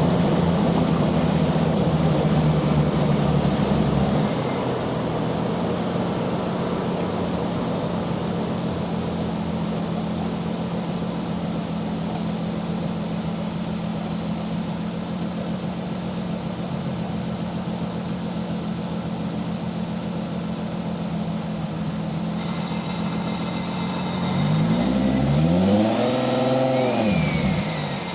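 Single-turbo 1JZ-GTE VVTi straight-six in a Nissan 240SX running on the road. It holds a steady pitch, drops back in level about four seconds in and cruises evenly. Near the end it revs up in a short pull and falls away again, with a faint whistle rising and falling along with it.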